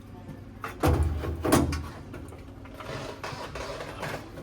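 Parts of an HVAC unit being handled and fitted back into place: two heavy knocks about a second in, then lighter clattering and rattling.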